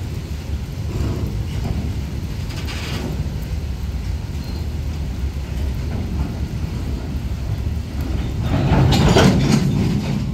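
Freight train rolling past in heavy rain, its wheels on the rails making a steady rumble, with a louder clatter for a second or two near the end.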